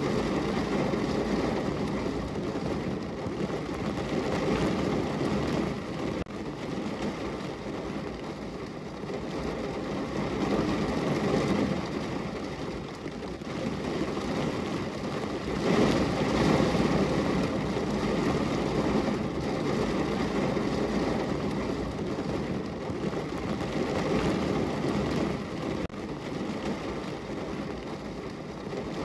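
Steady rain on a window, a dense rushing patter that swells and eases every few seconds.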